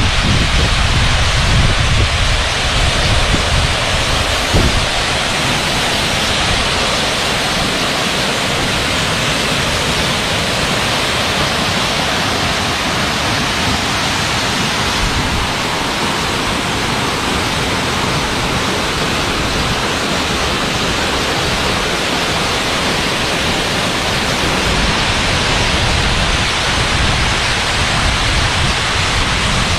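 Waterfall rushing: a loud, steady wash of falling water. Wind buffets the microphone as a low rumble for the first few seconds.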